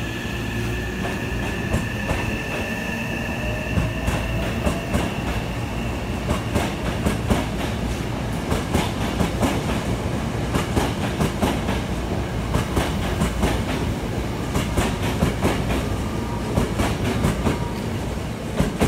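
Hankyu electric commuter train running out of the station close by, over a low rumble. A steady high whine fades away over the first few seconds, then the wheels clack rapidly over the rail joints as the cars roll past.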